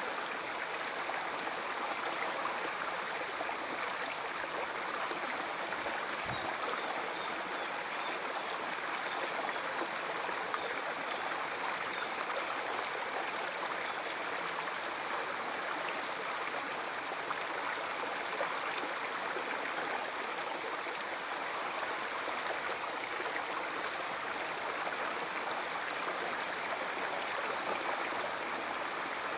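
River or stream water flowing steadily over rocks, a constant rushing and gurgling.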